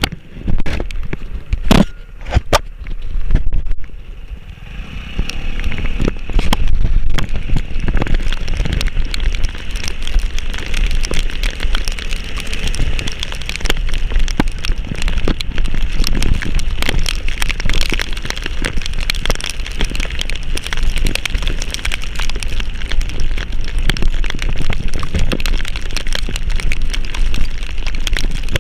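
Heavy rain falling, a dense mass of drops and crackles over a steady low rumble. It is sparse at first and thickens into a steady downpour about four seconds in.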